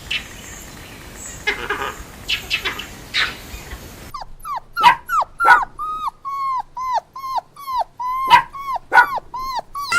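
A dog whimpering and yelping: a run of short, high cries, each falling in pitch, about two a second from a little before halfway, with a few louder sharp yelps among them. Before that come scattered rougher, noisier sounds.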